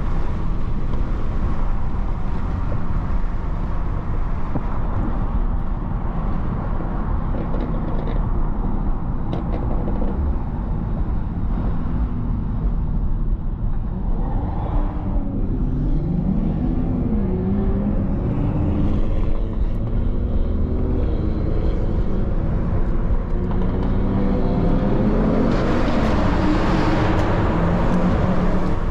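Mercedes-AMG GT63 S twin-turbo V8 driving over steady road rumble, its engine pitch rising and falling through the middle as the driver works the throttle and gears. Near the end the engine climbs and gets louder under hard acceleration.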